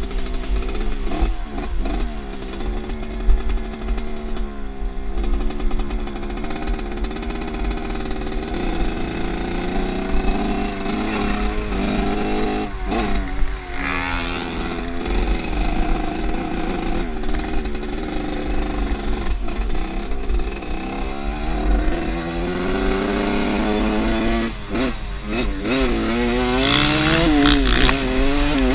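Off-road motorcycle engine running under way, its pitch rising and falling over and over with the throttle and gear changes.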